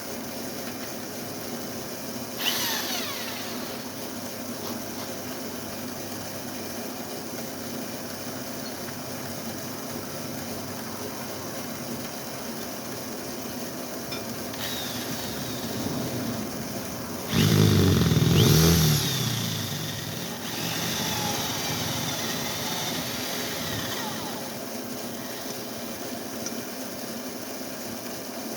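A motor running steadily, with a brief burst with a falling whine a couple of seconds in and a louder stretch of higher speed about two-thirds through.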